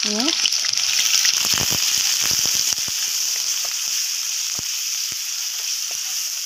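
Ground red onion paste sizzling steadily as it fries in hot oil in a kadai. It is being stirred, and the spoon scrapes and taps the pan, most often in the first half.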